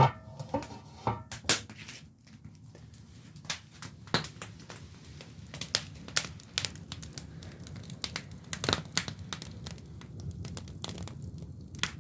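Firewood burning in a traditional Korean agungi firebox, crackling and popping at irregular intervals over a steady low sound of the fire, opening with a louder thud.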